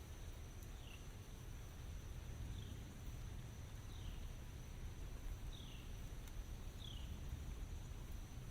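Outdoor forest ambience: a steady high insect drone, with a short downward-sliding chirp repeating about every second and a half over a low, even rumble.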